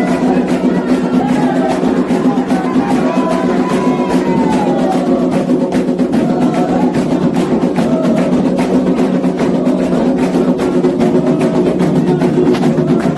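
Candomblé ritual music: fast, continuous drumming on atabaque hand drums with voices over it.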